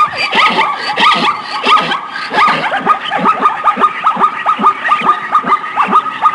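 Animal calls: many short squeals that drop steeply in pitch, several a second and overlapping, over a steady high tone.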